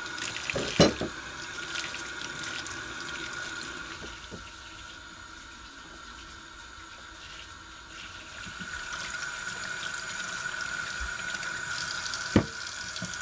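Water running steadily from a tap into a sink or basin, easing off a little in the middle, with a sharp knock about a second in and another near the end.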